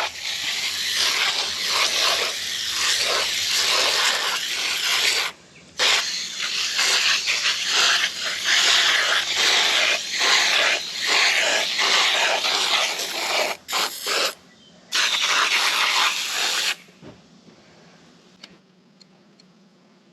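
Foaming coil cleaner hissing out of an aerosol can onto RV air-conditioner coils in long steady sprays, with a short break about five seconds in and a few quick short bursts near fourteen seconds, stopping about seventeen seconds in.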